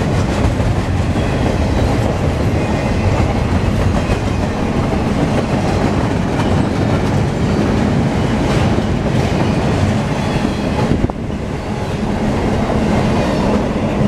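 Double-stack container train's loaded well cars rolling past, a steady loud rumble of steel wheels on the rails.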